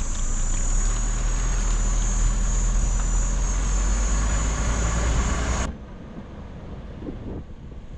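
A steady low engine hum with a high-pitched steady buzz over it, cut off abruptly about five and a half seconds in, followed by wind on the microphone.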